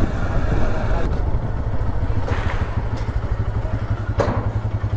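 Small motorcycle engine running as the bike slows and stops, settling into an even, pulsing idle. A short knock sounds about four seconds in.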